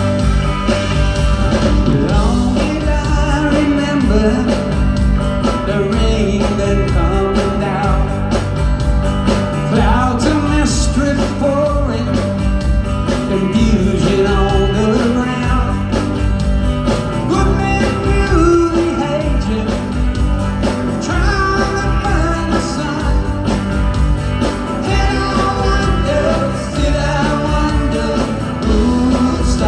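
Rock band playing live, a man singing lead over strummed electric guitar, bass and drums.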